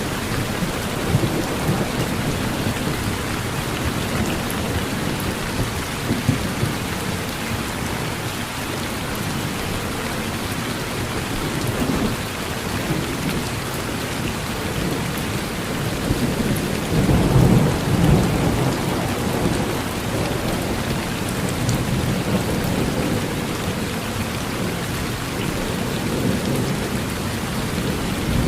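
Steady rain falling on a porch, with low rolling thunder rumbling beneath it that swells loudest about two-thirds of the way through.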